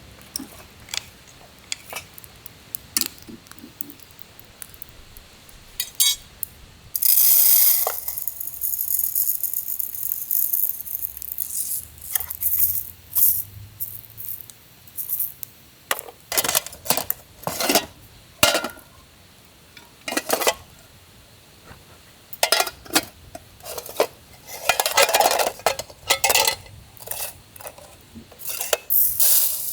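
Metal camp cookware being handled: an aluminium mess tin and its lid clinking and knocking in many separate sharp strokes, with a short hiss about seven seconds in.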